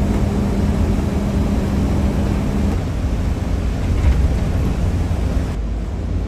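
Steady low vehicle rumble with a constant hum that stops about two and a half seconds in.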